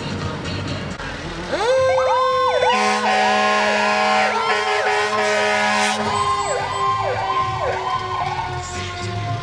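Fire truck sirens sounding together. An electronic siren rises about a second and a half in, then cycles up and down quickly, while a second siren tone slowly falls in pitch. A long low horn blast sounds from about three to six seconds in.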